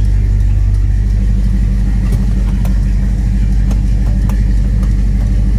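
1966 Chevrolet Nova Super Sport's V8 engine idling steadily, with a few light clicks over it.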